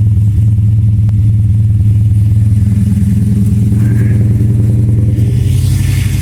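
Turbocharged 2002 Chevrolet Silverado engine idling steadily, shortly after a cold start following about a month of sitting. A rushing hiss joins in near the end.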